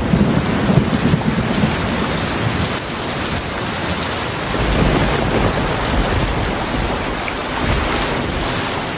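Heavy rain falling steadily, with low rolls of thunder, one at the start and another about halfway through.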